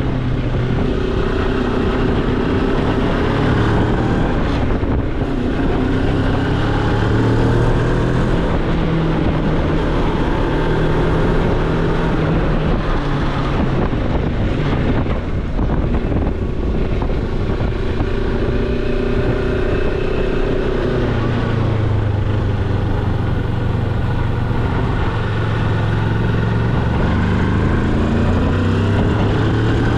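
Moto Morini X-Cape motorcycle engine running, its note rising and falling several times as the revs change.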